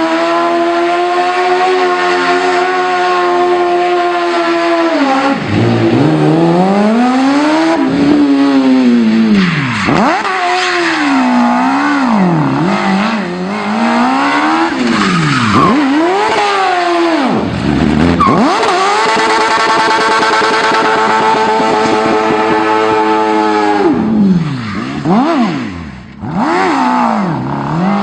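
Turbocharged Suzuki Hayabusa motorcycle engine in a Smart car revving hard: held steady at high revs for about five seconds, then swinging up and down again and again, then held steady once more, with a brief drop near the end. Tyre squeal from the car skidding runs underneath.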